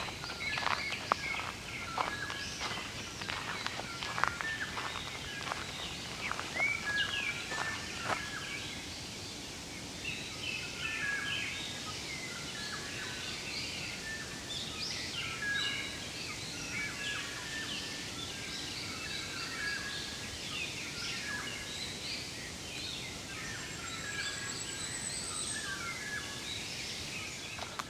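Several wild birds chirping and calling in woodland, many short high notes overlapping. Irregular sharp knocks or scuffs come through in the first eight seconds or so, and a thin high rising whistle sounds near the end.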